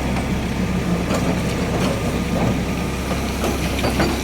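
A large engine idling steadily, a low even hum, with a few faint knocks through it.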